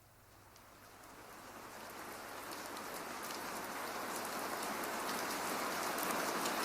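Steady rain falling, with scattered patters of individual drops, fading in gradually from near silence.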